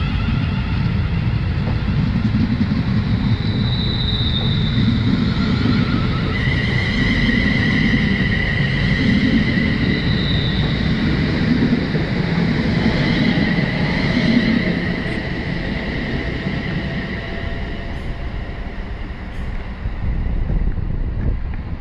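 Train running on the line: a steady rumble with high whining tones through the middle, easing off near the end.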